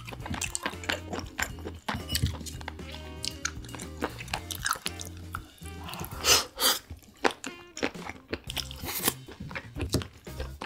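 Close-miked chewing and crunching of seafood: many short crisp bites and chews, with one louder burst about six seconds in, over background music.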